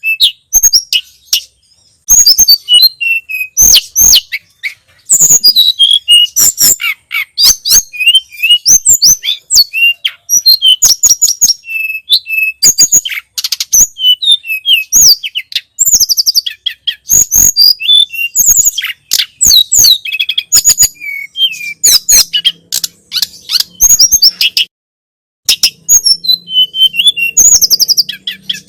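Tledekan gunung (sulingan gunung) singing a fast, continuous string of high chirps, trills and whistles, with one short break near the end.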